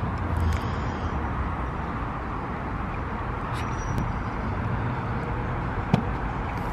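A car engine idling with a steady low rumble. A single sharp click comes about six seconds in.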